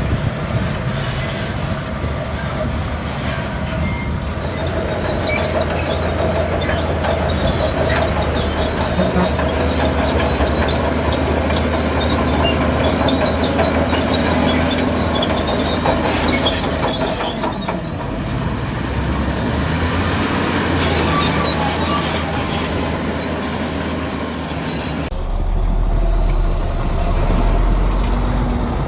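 Crawler bulldozer at work: its diesel engine runs steadily under a metallic clatter and squeal like steel tracks. About 25 seconds in, the clatter falls away and a deep, low engine rumble takes over.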